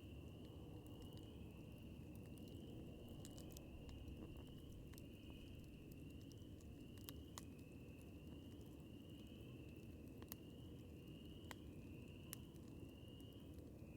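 Wood campfire crackling faintly, with a handful of sharp pops standing out in the second half, over a steady low rumble. Behind it an insect keeps up a high repeating call, each note a short upward slide, about one every three-quarters of a second.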